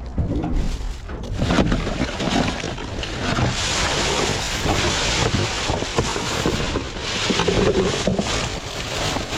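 Rustling, crinkling and knocking of trash being sifted through in a dumpster, with wind rumbling on the microphone.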